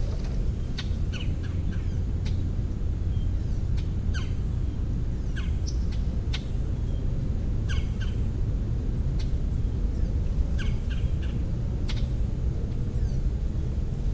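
Birds calling: short, sharp calls every second or so, over a steady low rumble.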